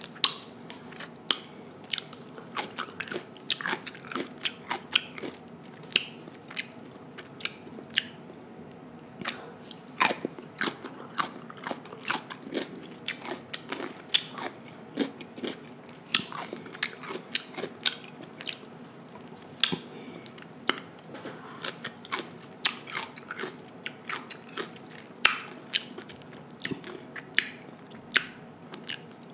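A person eating a seafood boil close to a microphone: wet chewing and crunching, with many sharp mouth clicks and smacks, several a second.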